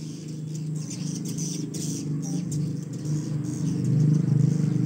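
Swiftlets chirping in short, high, squeaky bursts over a steady low engine drone that grows louder about four seconds in.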